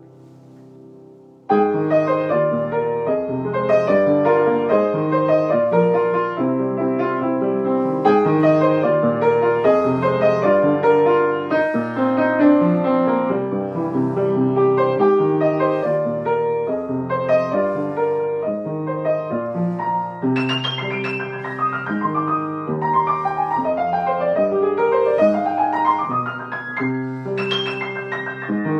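Solo piano playing a slow song, coming in suddenly and loud about a second and a half in after a quieter moment, with fast rising runs near the end.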